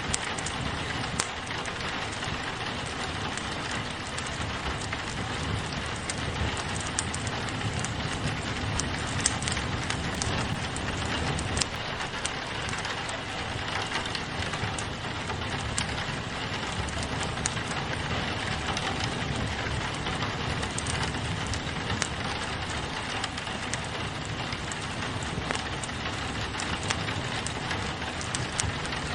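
Steady rain pattering on a window, mixed with a fireplace crackling, with small clicks and pops scattered throughout.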